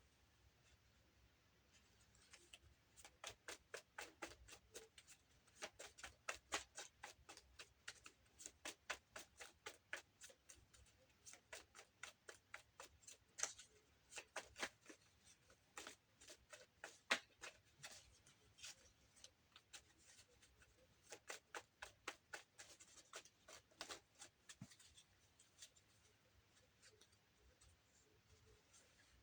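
Faint runs of quick, sharp clicks and taps, several a second, stopping and starting irregularly and dying away a few seconds before the end.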